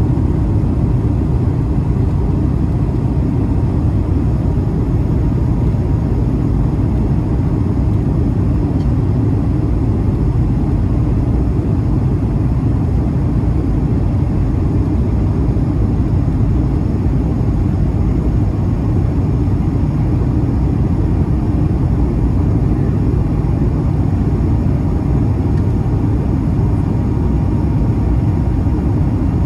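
Steady cabin noise inside an Airbus A220-300 airliner in flight: an even, low roar of its turbofan engines and the airflow past the fuselage, with a faint steady tone above it.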